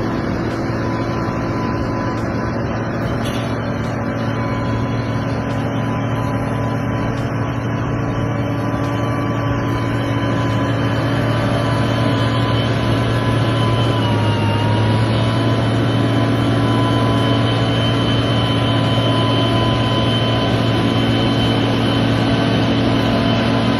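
Heavy vehicle engine running steadily, a low drone with a thin whine over it that dips briefly in pitch about midway, then stops abruptly.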